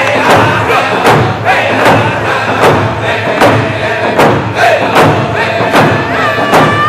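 Northern Plains-style round dance song: hand drums struck together in a steady, even beat, with a group of voices singing a high, wavering melody over it.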